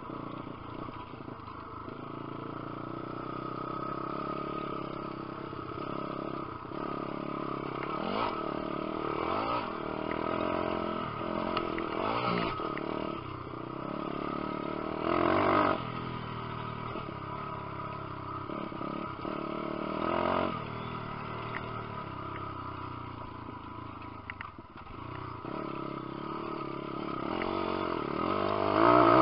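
Lifan 150cc four-stroke pit bike engine running as the bike is ridden, its pitch rising and falling with the throttle and gear changes. Brief louder bursts about halfway and at the very end.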